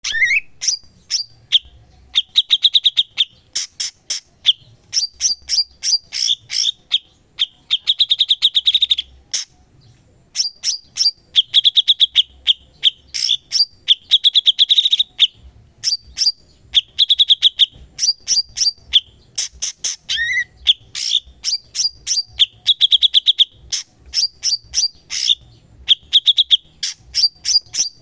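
Cucak cungkok singing continuously: rapid chattering trills of sharp notes in phrases of a second or two, mixed with short higher calls and broken by brief pauses.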